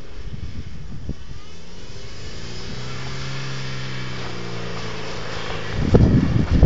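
VW Passat engine revving as the car drifts on snow: the engine note climbs about two seconds in, holds, then eases off. Near the end a loud rushing, buffeting noise takes over as the car passes close to the microphone.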